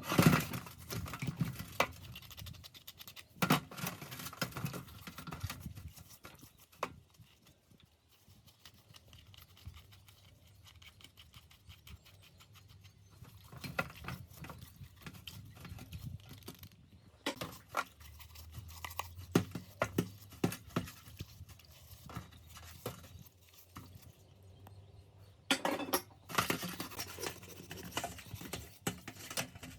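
Irregular clicks, knocks and scraping of hand work on metal tool parts, with a quieter stretch of scattered ticks in the middle and a busy run of clicks and scraping near the end.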